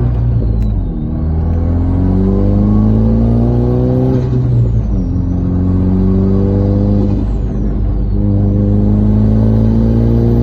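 Turbocharged Ford Focus ST accelerating hard through the gears. The engine pitch climbs, then drops at each of three gear changes. A high turbo whistle rises on each pull and falls away at each lift-off, where the turbo flutters.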